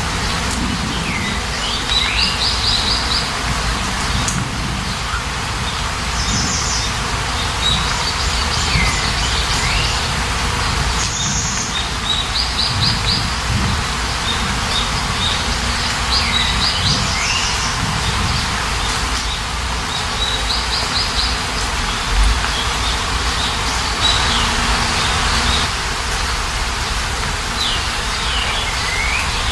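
Songbird singing a short, repeated phrase about every four seconds, a swooping whistle followed by a quick trill, over a steady hiss of falling rain.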